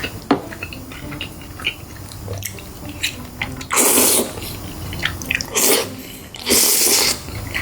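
Close-up eating sounds of fried chicken being chewed, with small wet clicks throughout and three louder crunchy noise bursts about halfway through and near the end.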